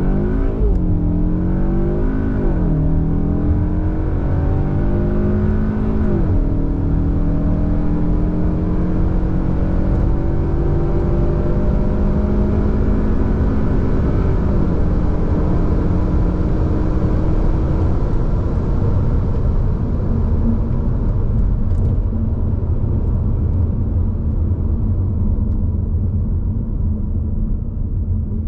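Cupra Formentor VZx's 2.0-litre turbo four-cylinder with Akrapovic exhaust accelerating hard. The engine note climbs and drops at three quick upshifts of the dual-clutch gearbox in the first six seconds, then rises more slowly in a higher gear. It levels off and gives way to a low road rumble in the second half.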